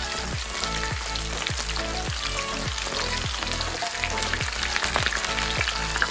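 Chicken wing lollipops sizzling as they deep-fry in a pan of hot oil, under background music with a steady beat.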